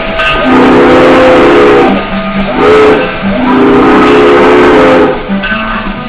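Steam locomotive chime whistle blowing a long, a short and a long blast. These end the long-long-short-long grade-crossing signal. Guitar music runs faintly underneath.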